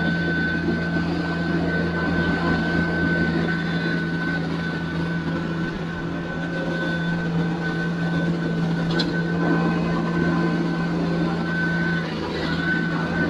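TYM T574 tractor's diesel engine running steadily under work, with a steady high whine over the engine hum that drops out briefly near the end.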